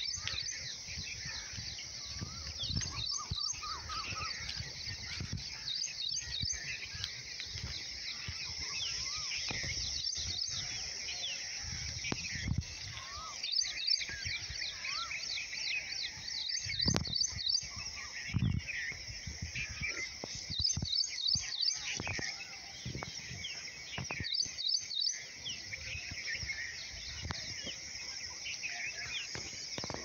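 Dawn chorus of many small birds chirping and twittering over one another in short, repeated high trills. Underneath is an uneven low rumble on the microphone.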